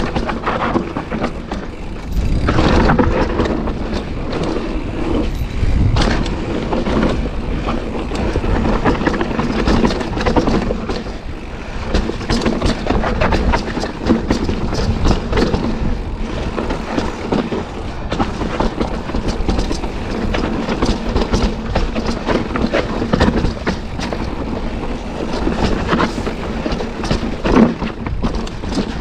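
Commencal mountain bike descending a steep, rocky trail: tyres on loose dirt and rock with a constant rattle and clatter of knocks as the bike jolts over rocks and ruts.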